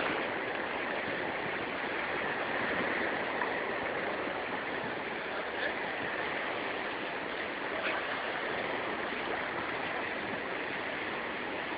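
Steady rushing noise of sea water, waves washing without pause, with no distinct events.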